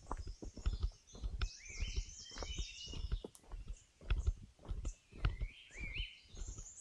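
Footsteps crunching along a forest trail at a walking pace, with birds singing; one bird repeats a short rising phrase about every three seconds.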